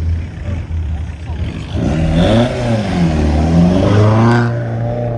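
Car engine revving and accelerating, its pitch rising and falling several times from about two seconds in, over a steady idling engine hum.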